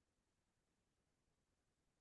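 Near silence: a pause in the guided meditation with nothing audible.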